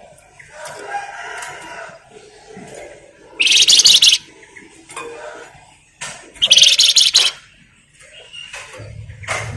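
Flamboyan songbird giving two loud bursts of rapid, high-pitched chattering trill, each under a second, about three and a half and six seconds in, with softer, lower calls between. A low hum starts near the end.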